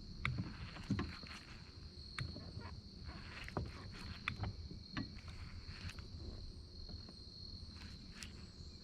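Light, irregular knocks and clicks from fishing tackle and the boat as the angler works a jerkbait, over a steady high-pitched whine.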